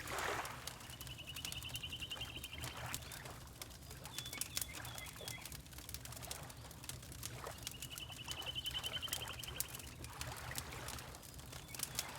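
Layered ambience: a wood fire crackling with frequent sharp pops, water lapping in slow swells, and a bird giving a rapid trill twice, each lasting about two seconds, with a few short chirps between.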